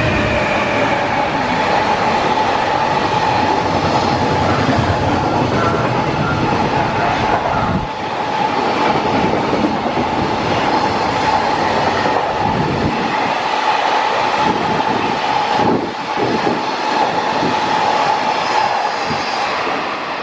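Freight train rolling past, its wagons' wheels clacking over the rail joints, with a steady high-pitched ringing from the wheels and rails.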